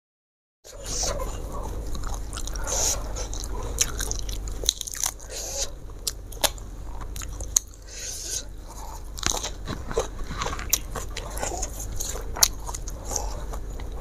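Close-miked eating: wet chewing with many sharp crunches, typical of biting into raw crunchy food. It starts abruptly about half a second in.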